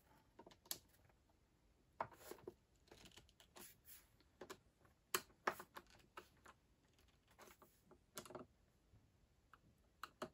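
Faint, irregular small clicks of a screwdriver turning and seating screws in the base of an iMac G4 as they are given a final tightening twist, with near silence between.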